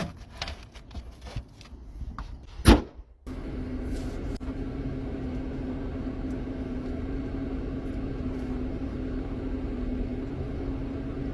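A few seconds of small clicks and rustle, then a single loud knock, then a steady low hum with one held tone from a car running.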